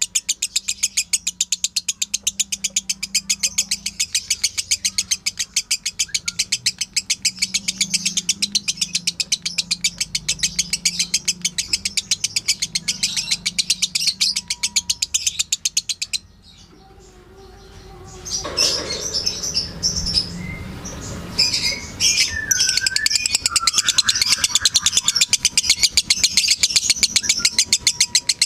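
Lovebird's long chattering song (ngekek), a fast, even train of high chirps. About sixteen seconds in it breaks off abruptly, then after a short lull resumes with more varied chirps and short gliding notes before the fast chatter returns.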